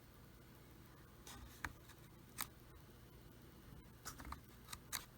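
Small handling clicks and a brief scrape, about six sharp ticks in all with a cluster near the end, as a CR2032 coin-cell battery is fitted into its holder on a drum machine's circuit board.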